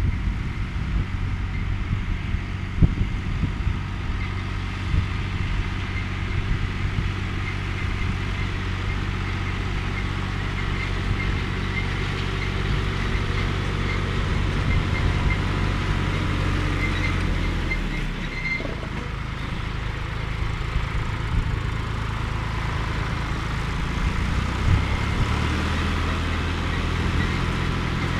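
John Deere 1030 tractor's three-cylinder diesel running steadily while driving a hay tedder. Its note sags about two-thirds of the way through and picks back up near the end.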